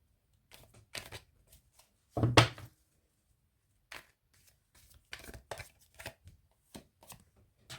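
Tarot cards being handled: short papery slides and taps as cards are drawn from the deck and laid down, the loudest about two seconds in.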